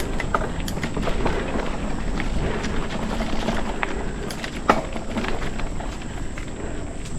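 Mountain bike rolling over a rough dirt trail: a steady rumble of tyres on the ground with frequent rattles and clicks from bumps, one sharper knock about two-thirds of the way through.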